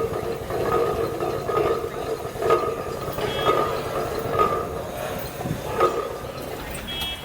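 A train running slowly, its bell ringing about once a second over the rumble and rattle of the cars.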